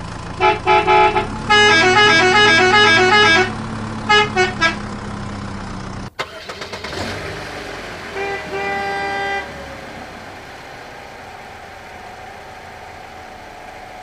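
Vehicle horn honking: a few short toots, then a quick run of alternating horn notes like a musical horn playing a tune, and three more short toots. After a sudden cut there is one longer horn blast about halfway through, then a fainter steady hum.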